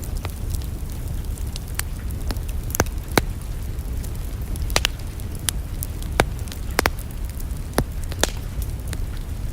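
Wood fire in a fireplace crackling: irregular sharp pops and snaps, several of them loud, over a steady low rumble of the burning fire.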